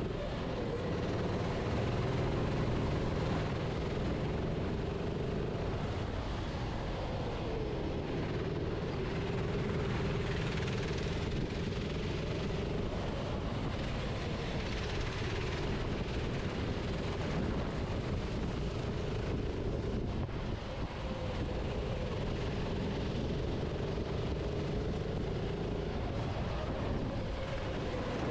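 Kart engine running at racing speed, its pitch repeatedly rising and falling as the driver lifts and accelerates through corners, over a steady rushing noise.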